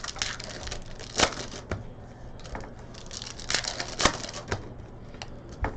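Trading cards being handled: a string of sharp clicks and short rustles as cards are flipped and slid against each other.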